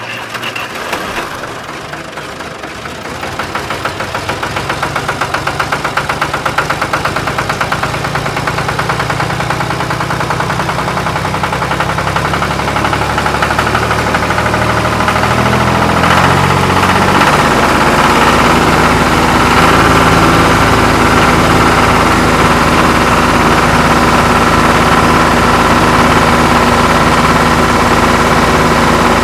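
Engine running with a steady knocking beat, getting louder over the first several seconds and then holding steady and loud, with a higher whine joining about halfway through.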